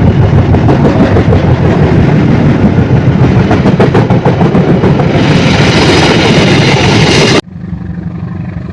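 Train passing close by on the rails: a loud, steady rumble with fast clattering of wheels, cut off abruptly about seven seconds in, leaving quieter engine noise.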